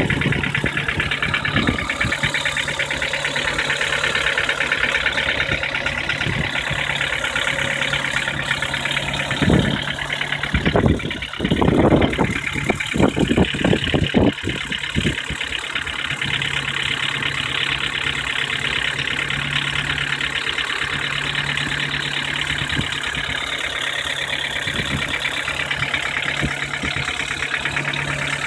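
Ford Duratec 1.6 four-cylinder petrol engine idling with a steady, rapid knock, the knock the owner is trying to track down. A louder, uneven stretch runs from about ten to fourteen seconds in.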